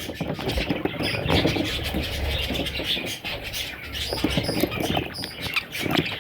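Budgerigars chirping and chattering without pause, many short, raspy calls overlapping.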